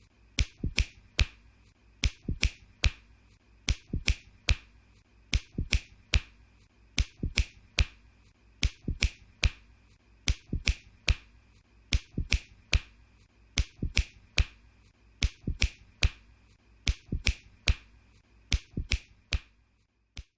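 Fingers snapping over and over: sharp clicks in uneven groups of two or three, about two a second, over a faint steady high tone.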